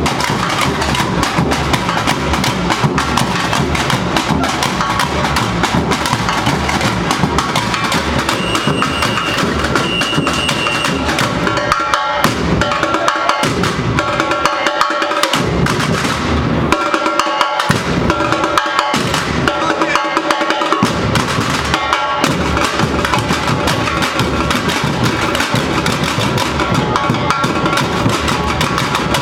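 A Brazilian university bateria, a samba-style drum and percussion ensemble, playing a loud, dense groove. About twelve seconds in, the deep bass drums drop out in several short breaks for some eight seconds while the higher drums keep going, then the full band comes back in.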